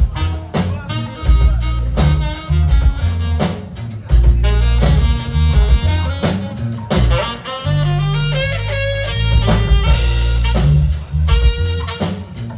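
A band playing an instrumental jazz-funk tune, with a drum kit keeping a steady beat under a strong bass line and a melodic lead.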